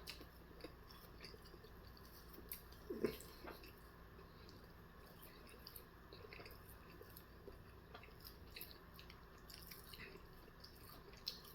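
Faint chewing and mouth sounds of a person eating, with scattered small clicks and a slightly louder one about three seconds in.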